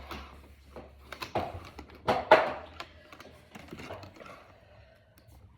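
Small plastic Brain Flakes discs clicking and clattering as they are handled and pushed together, a run of quick sharp clicks with a louder clatter about two seconds in.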